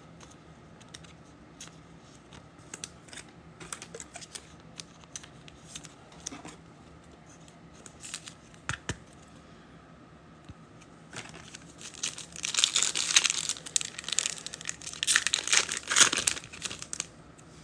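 Faint clicks of trading cards being handled, then, about two-thirds of the way in, the loud crinkling and tearing of a foil trading-card pack wrapper being ripped open.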